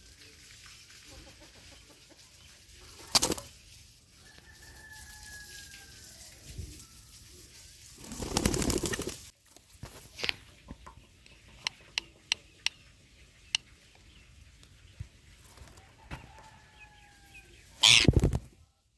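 Ringneck parrots scuffling in a fight: wings flapping, with sharp sudden squawks about three seconds in and near the end, a run of quick clicks in the middle, and a couple of faint falling whistles.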